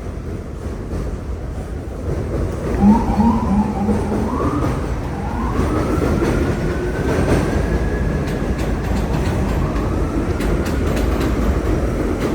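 Loud steady rumble of passing vehicles on a city street, with a few short pitched whoops about three seconds in and a long, slowly rising whine after.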